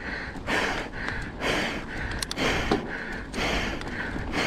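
Mountain biker breathing hard while riding, strong and weak breaths alternating at about one full breath a second, over a low steady rumble of tyres on the dirt trail.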